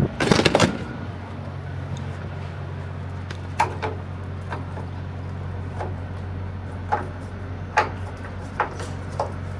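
Steady low hum of an idling semi-truck diesel, with a loud clatter near the start and about seven sharp clicks with a short ring spread through the rest, in the middle of refuelling at the diesel pump.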